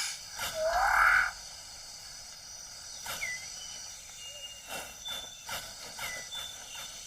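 Tropical rainforest ambience: a loud animal call with a rising pitch in its first second or so, then quieter forest background with scattered short high chirps and whistles.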